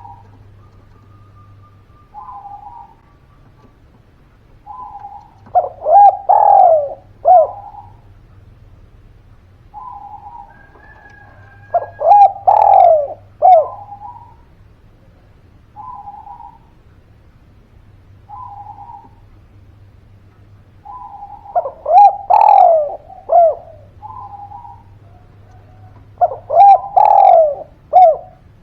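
Spotted dove (derkuku/tekukur) cooing over and over. Soft single coos alternate with four loud phrases of several notes, each note falling in pitch, spaced several seconds apart.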